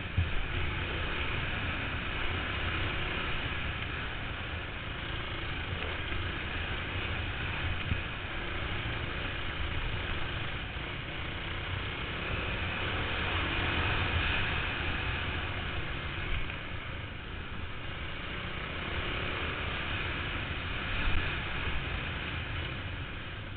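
Motorbike engine running steadily under a rushing noise, with a few brief louder knocks.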